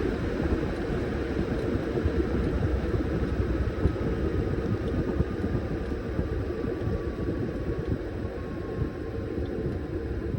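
Washing machine running with a load of towels: a steady rumbling churn, with a faint whine that slowly falls in pitch.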